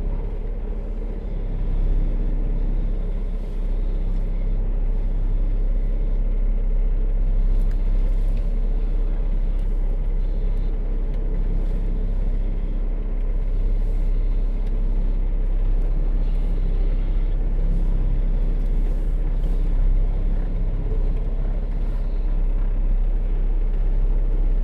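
Semi truck's diesel engine running steadily at low speed, a continuous low rumble with only small shifts in pitch.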